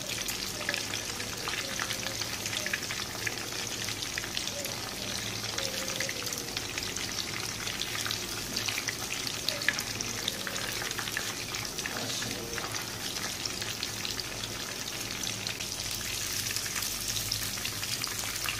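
Chicken pieces coated in shredded pastry strips shallow-frying in oil in a nonstick pan over a low flame: a steady sizzle full of small pops and crackles, with a few louder crackles now and then.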